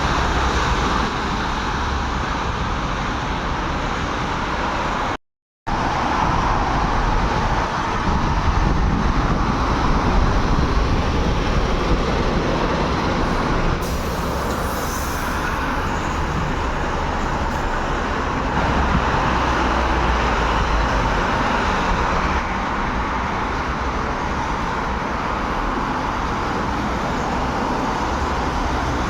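Steady road traffic noise from heavy vehicles on a road: a continuous rumble and tyre hiss. The sound cuts out completely for about half a second a little after five seconds in.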